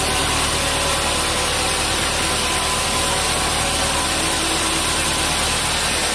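Sawmill machinery running steadily: a constant mechanical drone with faint steady tones and no breaks or impacts.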